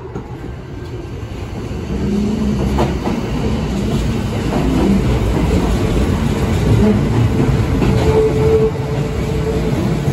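Electric train pulling out of the station and picking up speed: motor hum and wheels clacking over the rail joints, growing louder over the first couple of seconds and then holding steady.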